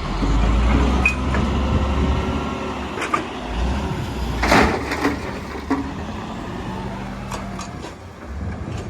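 Heavy diesel earthmoving machinery running. The engine revs up at the start and stays loud for a couple of seconds, then settles to a steadier run. About four and a half seconds in there is a loud knock or clatter, with a few sharper clanks around it.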